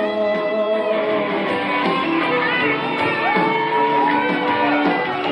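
Live band music from a pop ballad with guitar, in the pause between sung lines, with long gliding melodic tones.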